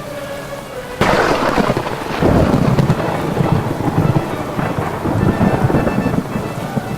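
Steady rain, then about a second in a sudden loud thunderclap that rolls on as low, rumbling thunder for several seconds before easing off.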